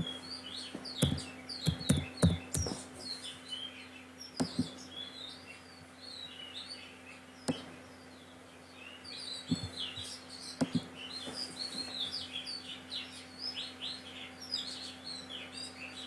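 Small birds chirping continually in short, quick calls, mixed with a scatter of sharp keyboard and mouse clicks, the densest about a second in, over a low steady hum.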